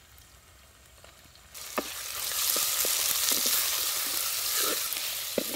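Chopped tomato sizzling in hot oil with fried onion, garlic and ginger in a clay pot, a spatula stirring and knocking against the pot now and then. The sizzling starts suddenly about a second and a half in.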